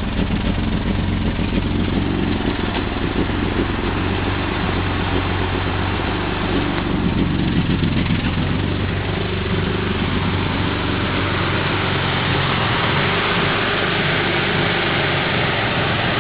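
Subaru XT6's flat-six engine idling steadily.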